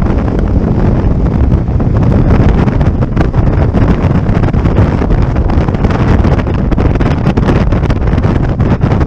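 Heavy wind buffeting the microphone of a passenger riding on a moving motorcycle, a loud steady rumble with crackles, covering the bike's engine and road noise.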